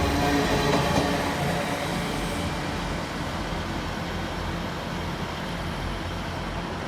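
Great Western Railway IET train pulling out of the station. The engine-like hum in its running noise fades over the first couple of seconds, leaving a steady, slowly easing rumble as it moves away.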